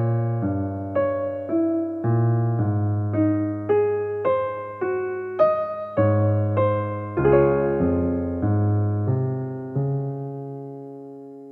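Soft background music on electric piano, a slow melody of single struck notes over sustained bass notes, ending on a chord that fades out.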